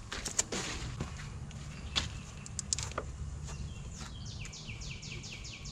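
Scattered light clicks and clinks of hand tools and parts under a car's hood, over a steady low hum. About four seconds in, a bird sings a fast run of short descending chirps.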